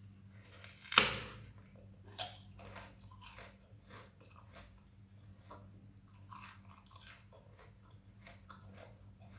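A person bites into a crisp green fruit: a loud crunchy bite about a second in and another a second later, followed by steady crunchy chewing.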